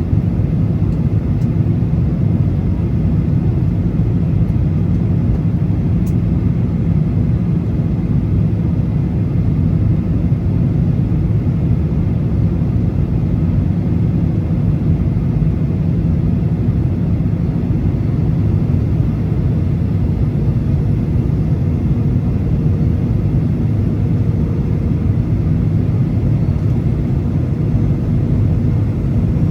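Steady low rumble of a Boeing 737's engines and rushing air, heard from inside the passenger cabin, with a faint steady hum joining in the second half.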